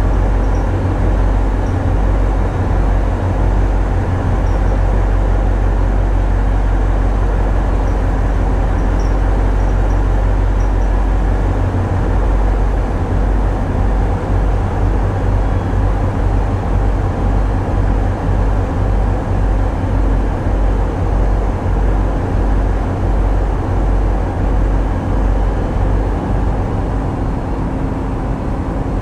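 Tugboat diesel engines running, a loud steady low rumble with an uneven throb in the deepest notes and a faint steady hum above it.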